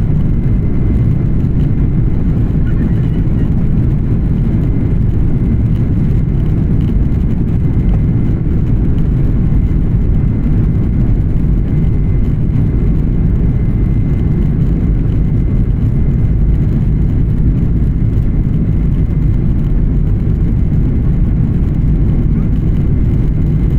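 Steady cabin roar of an Embraer 175 regional jet from a window seat: a deep, even rumble of its turbofan engines and airflow, with a faint steady high whine on top.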